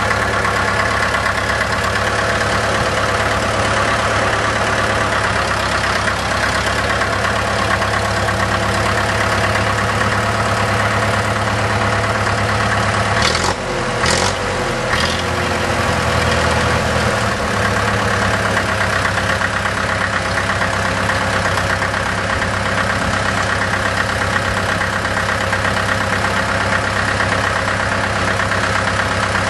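1954 Farmall Super MTA's four-cylinder diesel engine running steadily at idle. About halfway through come a few sharp clicks and a brief change in the engine note.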